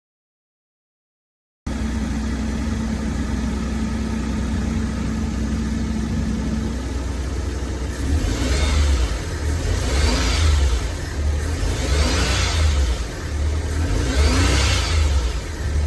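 Daihatsu Hijet S321's small three-cylinder engine idling steadily after a short silence, then revved up and let back down several times, about every two seconds. The engine is being checked for its running fault.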